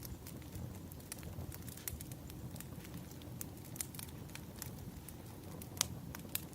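Wood fire crackling: scattered sharp pops and snaps of burning logs over the low, steady rumble of the flames, with one louder pop near the end.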